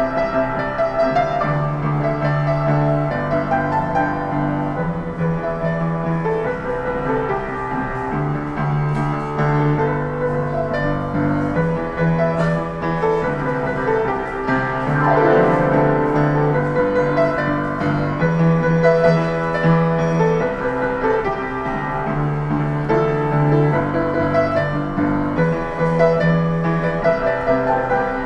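Street piano being played: chords and a melody over a bass line that repeats in short blocks of notes.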